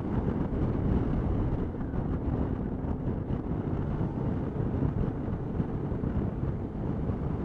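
Wind rushing over the action camera's microphone, with the steady road and engine rumble of a 2012 Suzuki V-Strom 650 motorcycle cruising along.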